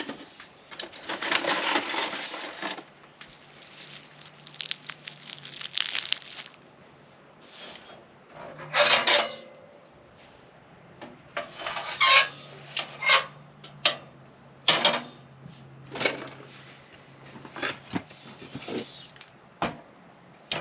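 Handling sounds of a wood-stove fire being laid: irregular knocks and clatters of wood and metal, with short stretches of rustling and crinkling.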